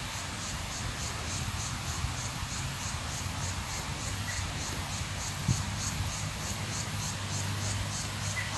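Steady high-pitched chirping, repeating at about three chirps a second, over a low steady hum. There is a single short knock about halfway through.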